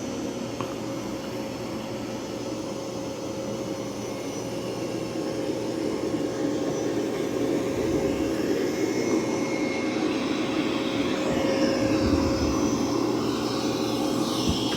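Mova V50 robot vacuum running on carpet at maximum suction: a steady whirring whoosh with a constant hum, growing louder about halfway through.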